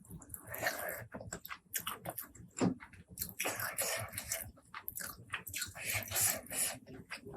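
Close-miked eating sounds: chewing and biting with many short wet mouth clicks and a few longer noisy stretches of a second or so.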